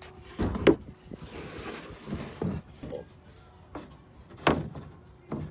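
A cut plywood board being set into a pickup truck bed: several wooden knocks, the loudest about half a second in, with a short scraping slide in between.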